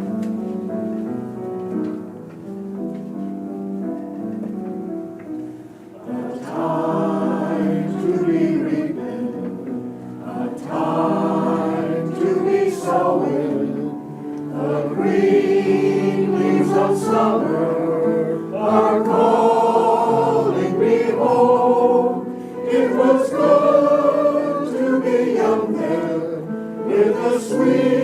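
Community choir singing with accompaniment: a sustained instrumental introduction, then the choir comes in about six seconds in.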